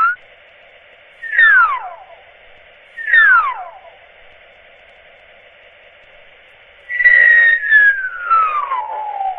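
Falling whistle glides with a thin, radio-like tone: two quick downward slides, then one long slow downward slide near the end.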